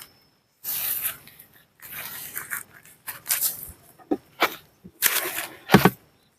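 Short bursts of rustling, handling noise broken by dead-silent gaps, with a few sharp clicks and taps near the end.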